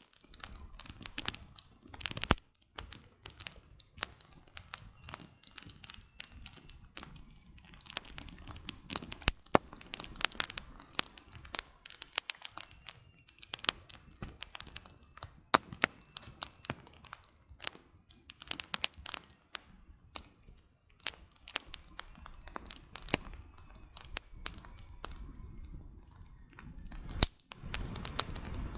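Campfire of burning firewood crackling: dense, irregular sharp pops and snaps over a soft hiss.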